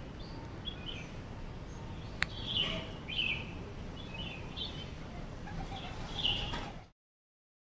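Birds chirping in short scattered calls over a steady low outdoor rumble, with one sharp click about two seconds in. The sound cuts off abruptly near the end.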